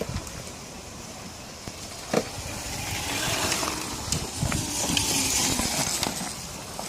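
Electric dirt bike riding on dirt, mostly tyre and chain noise rather than engine sound, with a sharp knock about two seconds in and growing louder from about three seconds in.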